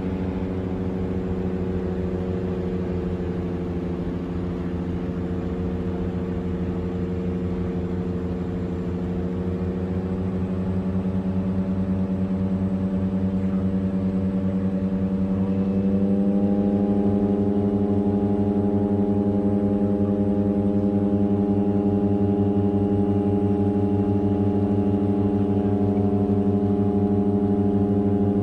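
Turboprop aircraft's propellers and engines droning steadily on the approach to land. About halfway through, the pitch steps up slightly and the drone grows louder, as power or propeller speed is increased.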